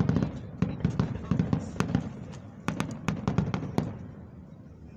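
Aerial fireworks bursting in rapid succession, many sharp bangs and crackles overlapping during a finale barrage, then tapering off and fading to a low rumble about four seconds in.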